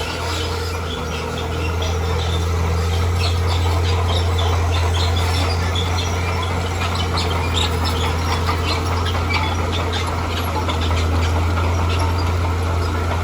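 Heavy earthmoving machine's diesel engine running steadily under load, a deep even drone. A scatter of short high ticks sits over it.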